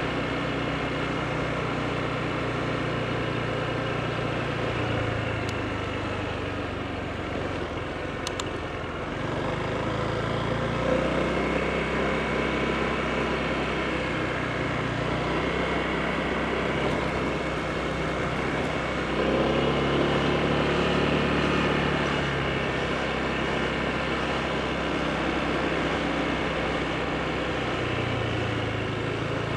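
Honda PCX scooter's single-cylinder engine running while riding along, its pitch stepping up and down several times as the speed changes.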